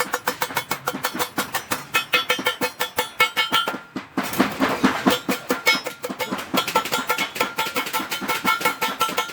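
Rapid, steady hammering on stainless steel sheet, about seven or eight blows a second, the metal ringing at the same few pitches throughout. There is a short break a little before halfway.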